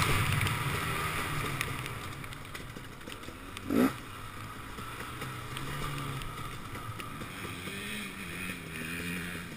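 The two-stroke engine of a KTM 250 XC-W enduro motorcycle dropping to low revs with the throttle closed. The bike rolls along quietly, with one short throttle blip about four seconds in.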